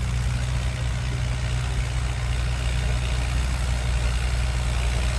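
Antique farm tractor engine running steadily at low speed, idling.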